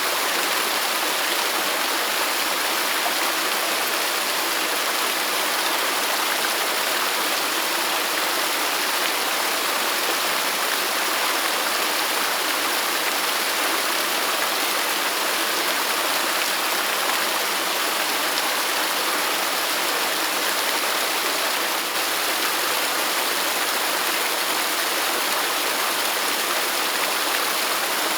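Waterfall: a steady, even rush of falling water, with no distinct splashes or changes.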